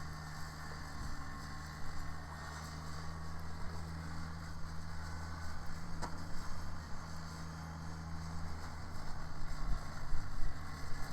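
Kubota BX sub-compact tractor's diesel engine running with a steady low hum while powering a rear-mounted snow blower.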